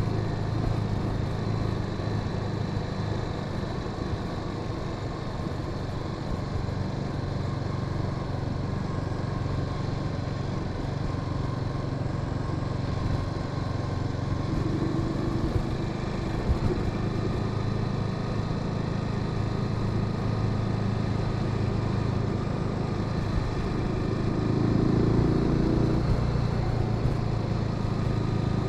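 Honda Sahara 300 single-cylinder motorcycle engine running steadily while riding, with wind and road noise. The engine sound swells briefly about halfway through and again near the end.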